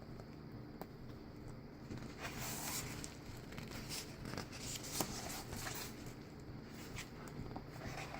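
Thick photobook pages being turned by hand: soft paper rustles and slides with a few light taps, several times, over the steady hum of electric fans.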